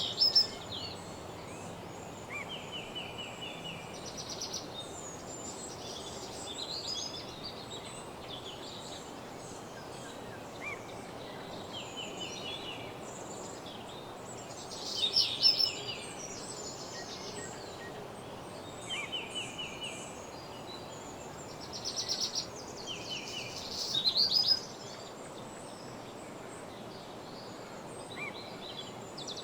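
Woodland birds singing over a steady background hiss: several short, rapid trilled phrases repeat every few seconds, the loudest about halfway through and again near 22 and 24 seconds in.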